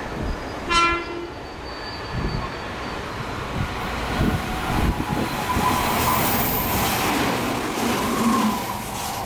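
Red Meitetsu electric train sounding a short horn toot about a second in, then passing through the station at speed with loud, rising wheel-on-rail noise that fades near the end.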